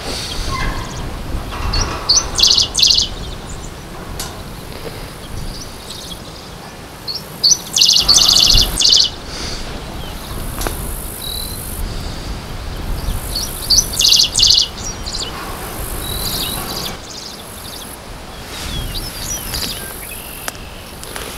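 A songbird repeating a short phrase of rapid notes three times, about six seconds apart, with smaller chirps between, over a steady high drone of insects and a low rumble.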